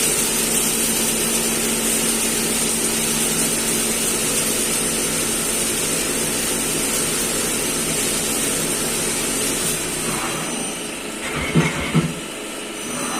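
A CNC machine running steadily, a constant hum under a high whine. Near the end the sound thins, and two sharp knocks come about half a second apart.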